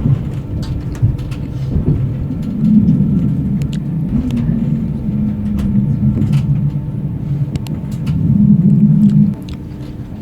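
Electric narrow-gauge passenger train running: a steady low rumble and hum that grows louder about two and a half seconds in and drops away suddenly near the end, with scattered clicks and rattles.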